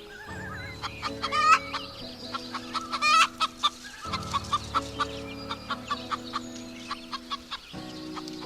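Chicken clucking sound effects: many short, sharp calls in quick, irregular succession, loudest near 1.5 s and 3 s in, over soft background music.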